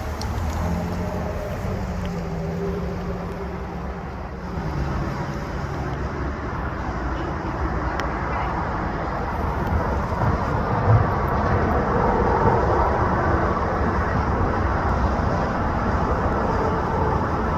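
A car pulling away and driving off, its engine note falling over the first few seconds, then steady road and traffic noise that swells in the second half.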